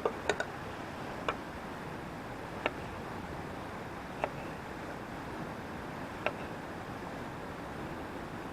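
Wood fire crackling: a few sharp, irregular pops, several seconds apart, over a steady outdoor hiss.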